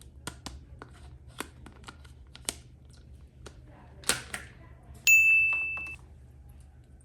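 Scattered light clicks and taps of plastic toys and packaging being handled. About five seconds in comes a single steady high-pitched electronic beep lasting about a second, the loudest sound.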